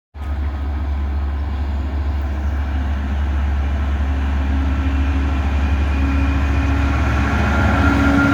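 Train at a railway station: a steady low rumble that cuts in suddenly, with faint whining tones that grow a little louder near the end.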